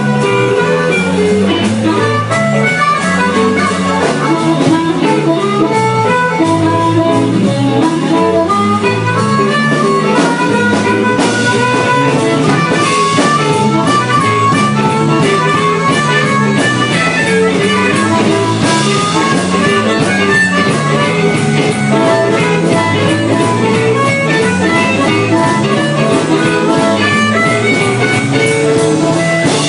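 A blues band playing: guitar over a stepping bass line and drums.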